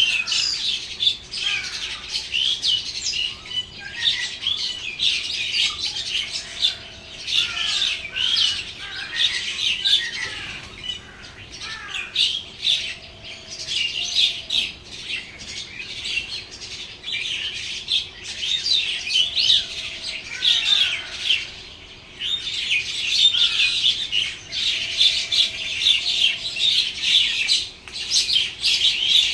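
Many small birds chirping and squawking together, short calls overlapping without a break, busiest and loudest in the last few seconds.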